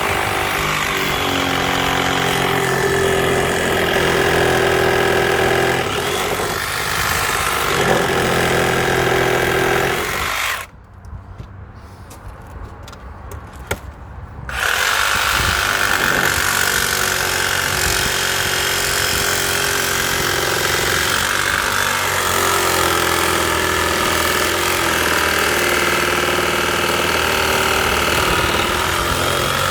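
A power tool running hard under load with a steady whine. It stops abruptly about a third of the way in and starts up again some four seconds later.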